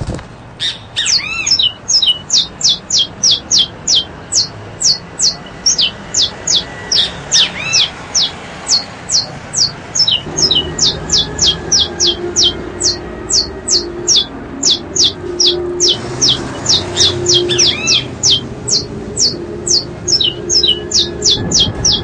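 A bird calling a sharp, high note over and over, about three to four times a second, with a few lower arched calls from other birds. A steady low hum joins about ten seconds in.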